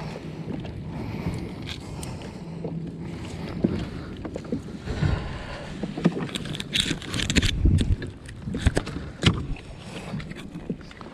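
Wind rumbling on the microphone and water moving around a kayak, with irregular knocks and clatters against the hull.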